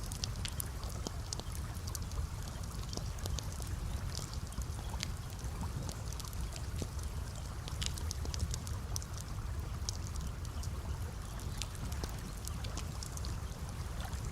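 Campfire crackling, with sharp irregular pops and snaps over a steady low rumble and a gentle trickle of water.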